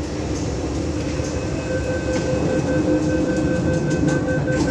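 Inside a CNR Changchun-built MTR South Island Line electric train running between stations: a steady low rumble of wheels on track with the electric traction motors giving a hum of several steady tones, a higher whine joining in about halfway through.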